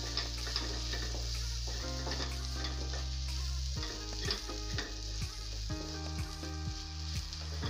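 Potatoes, onions and frozen peas sizzling as they fry in a kadhai, with a spatula stirring and scraping against the pan. The scrapes come more often in the second half.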